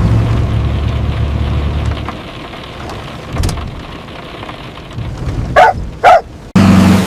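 A tractor engine runs with a low rumble for about two seconds, then fades. Near the end come two short, loud animal calls about half a second apart.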